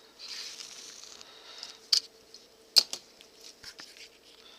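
Leather mitt pieces being handled: a soft rustle, then two sharp clicks about a second apart and a few fainter ticks.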